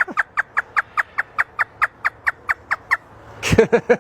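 African grey parrot doing a hysterical laugh: a quick run of short cackling notes, each falling in pitch, about five a second. A louder burst of a few notes follows near the end.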